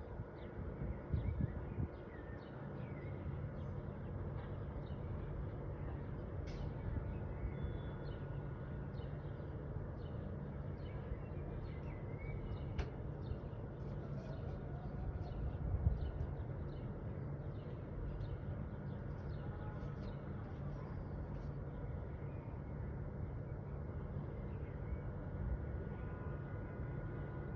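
Small birds chirping in short, high calls repeated every second or few, over a steady low rumble. A few dull thumps come at the start and about halfway through.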